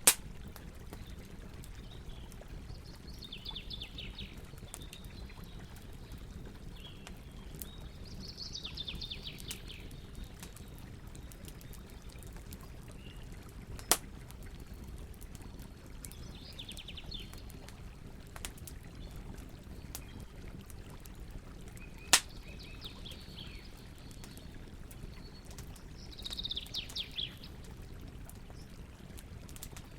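Campfire burning with a steady low rustle and scattered crackles, three sharp loud pops among them. Birds sing short fast trills in the background, about half a dozen times.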